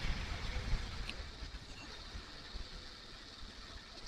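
Kawasaki KLR single-cylinder motorcycle under way: a low, unpitched rumble of engine and wind on the rider's microphone, easing quieter over the first couple of seconds.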